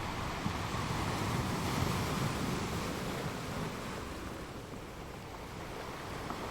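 Ocean waves breaking on a shore, a continuous rushing wash that swells about two seconds in and eases off after the middle.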